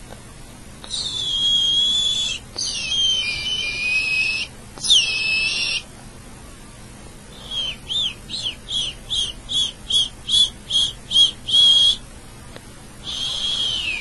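A person whistling imitations of bird calls: a few held whistled notes, one sliding down at its end, then a run of about a dozen short chirps at roughly three a second, and a last held note that drops in pitch as it ends.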